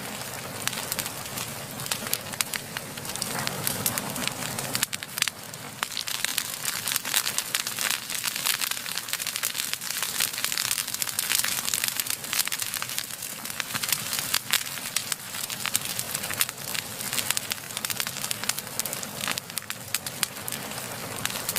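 Wood fire burning, with dense irregular crackling and popping over a steady hiss.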